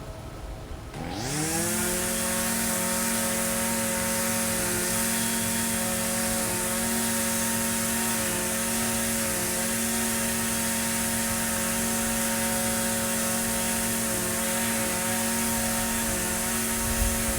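Echo SRM-2620 string trimmer's two-stroke engine speeding up sharply about a second in, then running at a steady, constant speed.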